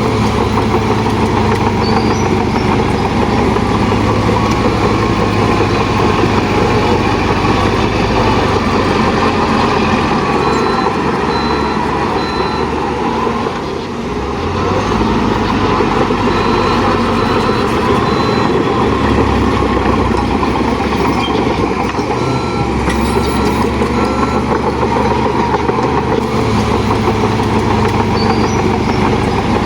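Heavy diesel earthmoving machinery running steadily under load, with a reversing alarm beeping in short runs of a few beeps, three times.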